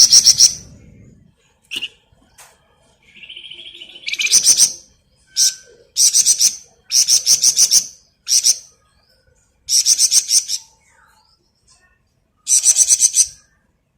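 A songbird known in Indonesian birdkeeping as the flamboyan, singing in short, loud, high-pitched bursts of rapid rattling notes separated by brief pauses, with one buzzy drawn-out note about three seconds in.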